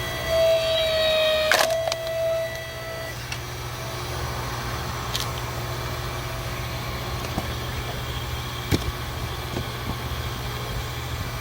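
Electric log splitter's motor running with a steady hum. A whine rises over it for the first few seconds, with a sharp crack about a second and a half in, and a single click near the end.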